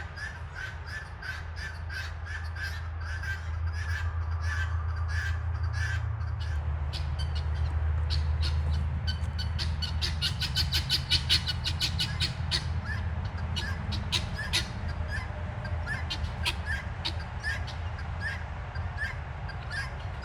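Guinea fowl calling in a rapid, harsh, repeated chatter, several calls a second, over the low rumble of highway traffic that swells in the middle and fades again.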